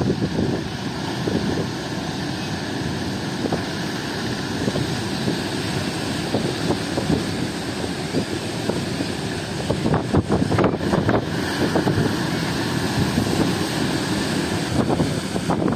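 Strong wind buffeting the microphone over the steady wash of sea surf, with the heaviest gusts hitting about ten seconds in.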